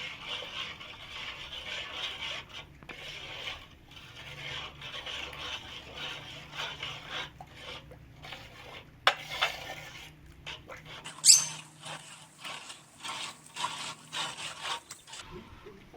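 Irregular rubbing and scraping strokes with squeaks, a sharp knock about nine seconds in and a louder one a little after eleven seconds.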